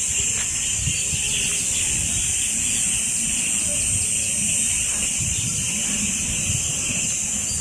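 Outdoor ambience under trees: a steady high hiss, wind rumbling on the microphone, and a few faint bird chirps.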